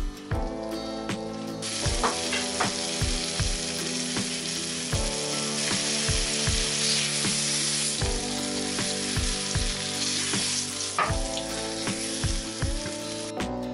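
Floured veal shanks searing in hot oil in a frying pan: a steady, loud sizzle that starts abruptly about two seconds in. Light background music with plucked notes plays underneath.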